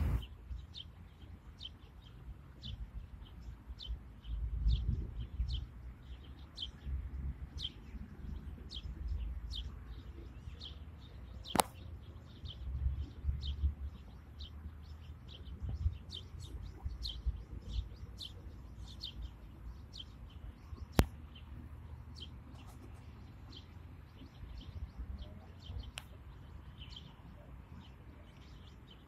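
A bird's short, high chirps, repeated about twice a second, over a low, fluctuating rumble. Two sharp clicks stand out, one before the middle and one after it.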